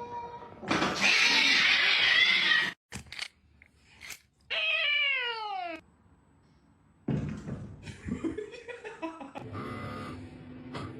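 Cats: a loud hiss lasting about two seconds near the start, then, about halfway through, a drawn-out meow that falls steadily in pitch.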